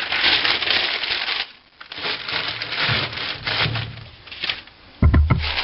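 Crumpled newspaper rustling and crinkling as it is handled and spread out in a fireplace grate, in two spells, with a dull knock near the end.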